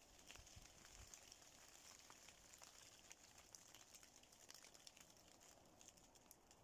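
Faint light rain: scattered drops ticking irregularly on oak leaves.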